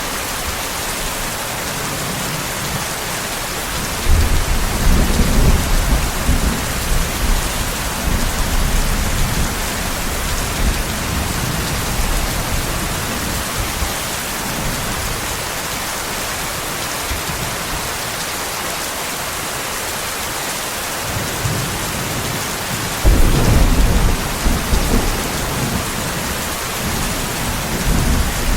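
Steady heavy rain hissing throughout, with two rolls of thunder: a long deep rumble starting about four seconds in and fading over several seconds, and a second, sharper one about twenty-three seconds in.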